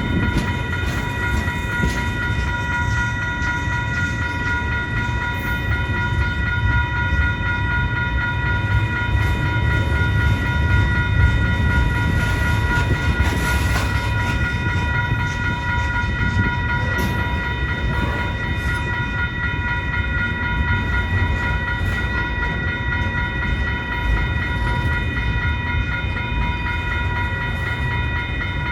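A CN mixed freight train's cars rolling past in a steady low rumble, with a steady high-pitched tone sounding over it.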